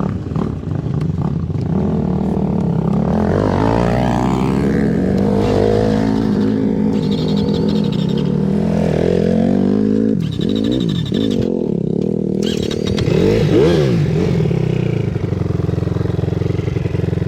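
Dirt bike engine running, its pitch rising and falling as it is revved, most clearly about ten seconds in and again around fourteen seconds.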